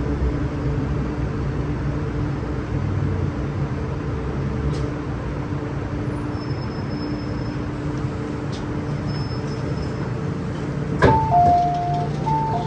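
MTR M-Train running, a steady rumble with a steady hum from the train's drive. About eleven seconds in there is a sharp click, then a two-note falling chime sounds twice.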